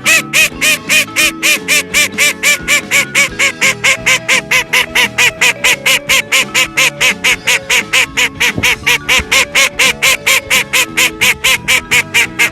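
A rapid, even series of loud honk-like calls, about four to five a second, each rising and falling in pitch, over background music.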